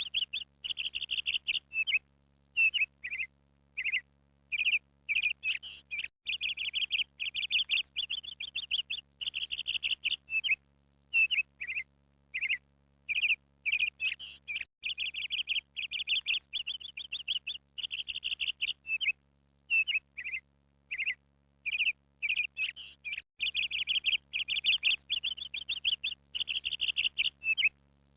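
Small birds chirping and trilling in quick runs, broken by short pauses.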